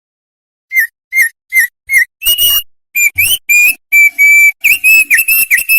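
Opior, a white-eye songbird, singing: four short clear whistled notes about 0.4 s apart, then a faster run of ringing whistled notes.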